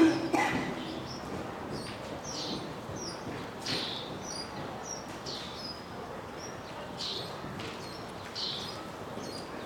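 Small birds chirping: short, high, downward-sliding chirps repeated about once a second, with a brief louder sound right at the start.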